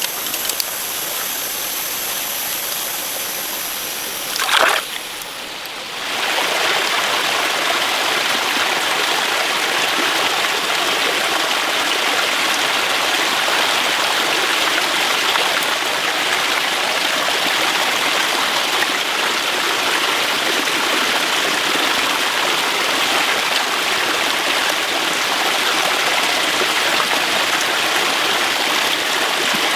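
Steady rushing of flowing water, setting in abruptly about six seconds in; before that a quieter stretch with faint high steady tones and one brief loud sound.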